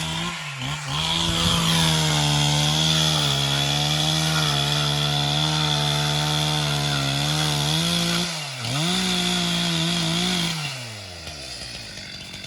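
Chainsaw running at high revs, cutting into wood with a steady high whine over the engine. The engine bogs down briefly about two-thirds of the way through, comes back up, then the throttle is released near the end and the pitch falls away to a quieter idle.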